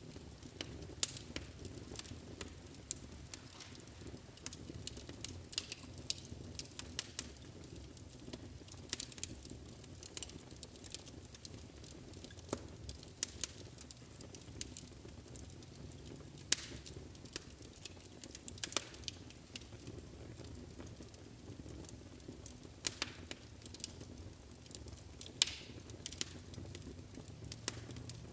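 Wood fire burning in a fireplace: a low steady rumble of the flames under frequent irregular crackles and sharp pops of the burning logs.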